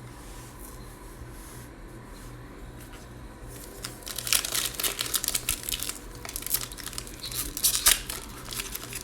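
Trading card pack wrapper being torn open and crinkled, starting about three and a half seconds in, with fast irregular crackling after a quiet start.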